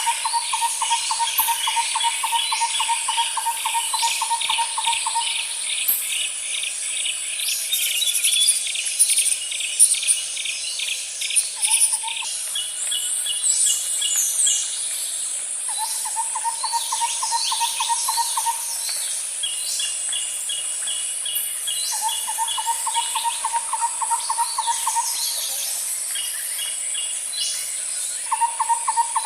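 Nature ambience: a steady high insect drone, with a low, rapid trill of about three seconds repeating every few seconds, a higher trill and scattered bird chirps over it.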